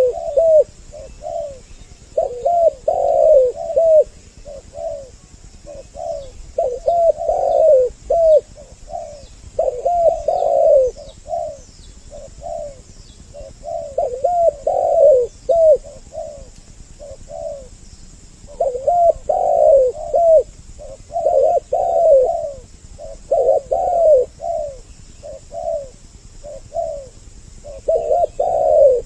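Spotted doves (tekukur) cooing in repeated phrases a few seconds apart, two birds' calls overlapping: a lure recording meant to draw in male and female doves.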